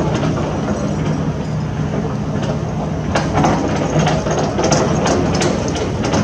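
Diesel engine of heavy construction machinery running steadily, with scattered sharp cracks and clanks over it.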